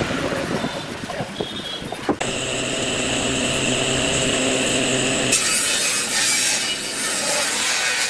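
Scattered knocks and clatter of woodworking, then a sudden knock about two seconds in and a power tool's steady high whine. A little past five seconds it changes abruptly to a harsher, hissing sound of the tool working wood.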